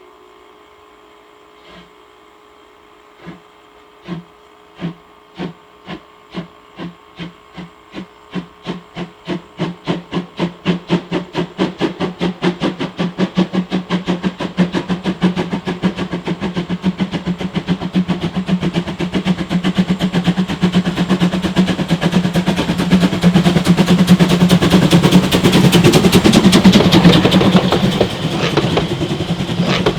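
Narrow-gauge steam locomotive 99 1785, a class 99.77 2-10-2 tank engine, pulling away from a standstill. Its exhaust chuffs start slow and far apart about two seconds in, then come steadily faster and louder until they run together into a rapid beat, easing slightly near the end.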